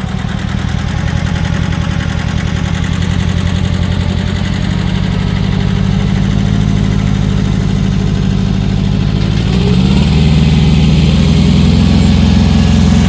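Tractor engine running just after being started, its firing pulses quickening as it settles. About ten seconds in it steps up to a higher speed and louder.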